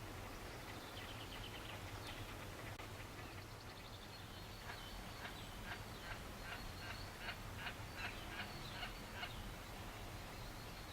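A bird calling in a series of short, sharp notes, about two a second, in the middle of the stretch, over a steady low background rumble.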